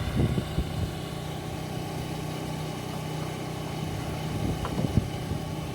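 A steady low mechanical hum, like an engine idling, with a couple of light knocks: one just after the start and a sharper one about five seconds in.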